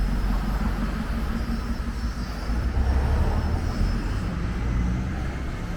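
Steady low rumble of road traffic in a town street, with a faint thin high whine through the middle.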